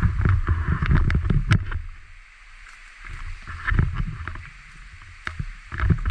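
Water splashing and sloshing in uneven bursts, loudest in the first two seconds and again near the middle and end, with a few sharp knocks among them.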